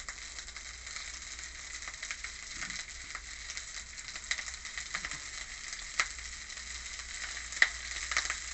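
Rice and garlic frying in a pan: a steady sizzle with scattered crackles, and a couple of sharper pops in the second half.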